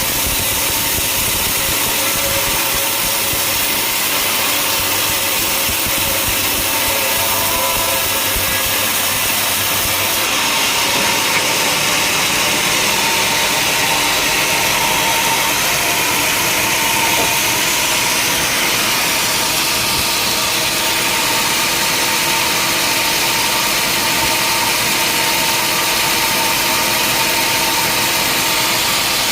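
Sawmill machinery running steadily: a continuous engine-driven hum with a constant high hiss, which changes slightly about ten seconds in.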